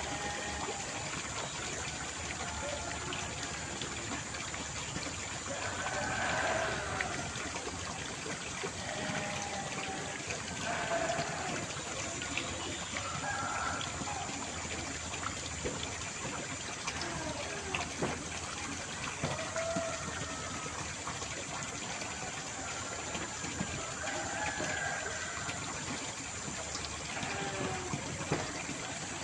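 Running water, a steady rush and trickle like a small stream or channel flowing.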